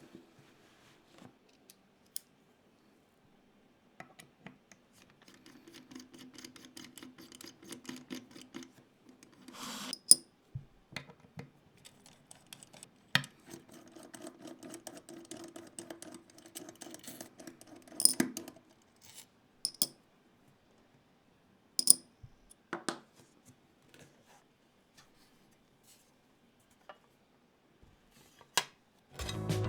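Small clicks, taps and light clinks of Gok 7V custom keyboard parts being handled during assembly, with a few sharper knocks. There are two longer stretches of low rubbing or whirring.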